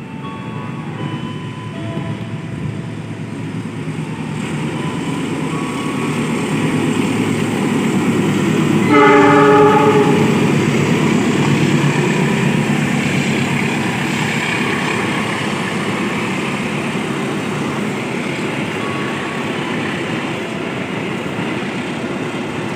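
A train passing, its rolling rumble building up and peaking about nine seconds in, where its horn sounds once for about a second and a half; the rumble then carries on steadily.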